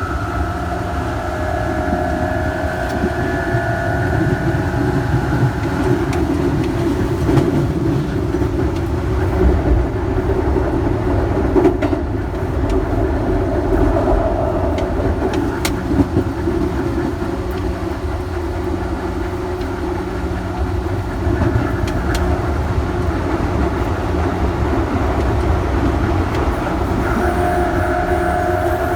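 Electric train running on rails: a steady rumble of wheels with a few sharp clacks from rail joints, and a motor whine that fades away in the first few seconds and comes back near the end.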